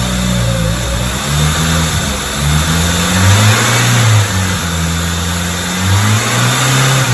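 Freshly built car engine running on its first start-up, blipped up in revs and let fall back toward idle several times.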